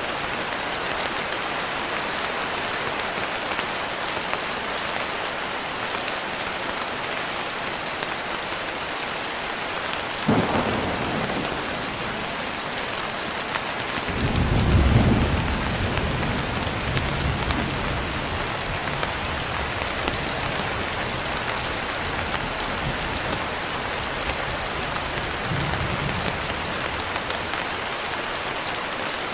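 Steady, heavy rain falling throughout. A sharp thunder crack about ten seconds in, then a deep rolling thunder rumble that swells a few seconds later and fades, with a fainter rumble near the end.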